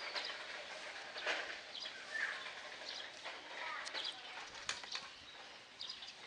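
Small birds chirping in short calls in the background, with a few sharp clicks about a second in and near the middle.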